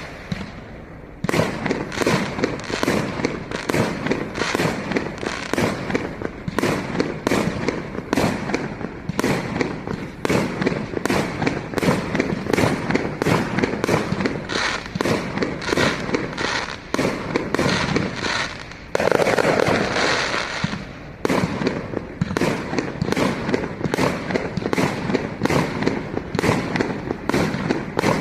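Fireworks display: a steady barrage of shell bursts, about two bangs a second, thickening into a denser flurry about twenty seconds in.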